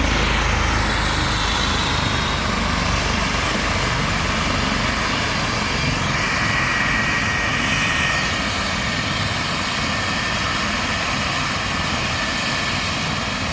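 Helicopter running on or near the ground, a steady rush of rotor and turbine noise. The deep rumble drops away about five seconds in, leaving a steadier hiss with a faint whine.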